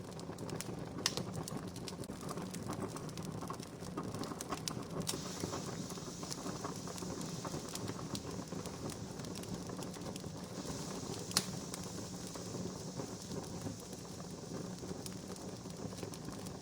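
Wood campfire crackling steadily, with many small scattered snaps and two sharper pops, one about a second in and one about eleven seconds in.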